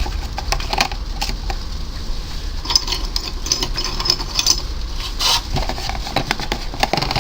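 Broken terracotta pot shards clinking and knocking as they are dropped one by one into the bottom of a plant pot for drainage, a run of irregular short clicks.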